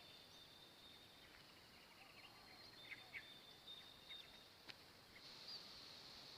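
Faint outdoor natural ambience: a steady thin high-pitched insect drone, with a few brief faint bird chirps about three seconds in and a single sharp click later on.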